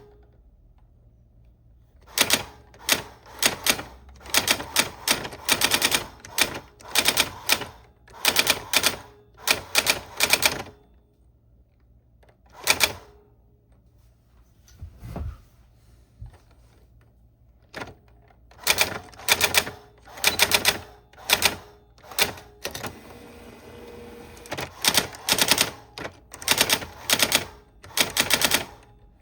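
Old typewriter being typed on: runs of sharp key strikes in bursts, with a pause of several seconds in the middle.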